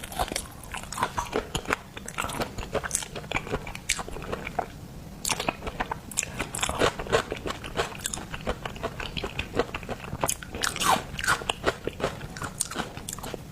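Close-miked eating of seafood: wet chewing and crunching with irregular mouth clicks and crackles, easing briefly about four and a half seconds in.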